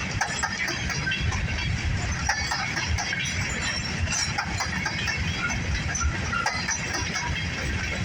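Grain train of covered hopper cars rolling past, a steady low rumble with rapid clicking of wheels over the rail joints.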